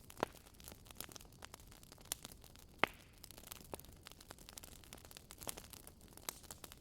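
Wood fire in a fireplace crackling: irregular sharp pops and snaps over a soft hiss, with two louder pops, one just after the start and one a little under three seconds in.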